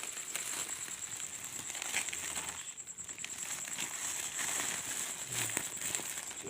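Scattered rustling and crackling, like handling in leaves or a sack, over a continuous high-pitched, finely pulsing insect trill.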